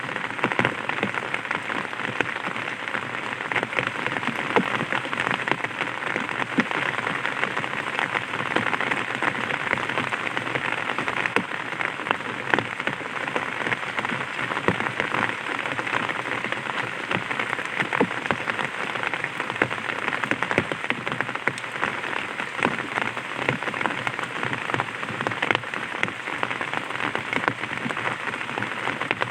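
Light rain pattering on an umbrella canopy: a steady dense spray of small drop ticks.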